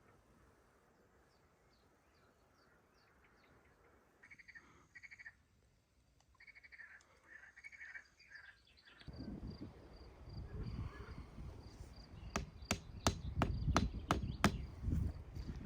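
A run of sharp knocks, several a second, begins about twelve seconds in over low rustling handling noise. Faint rapid insect chirping runs underneath.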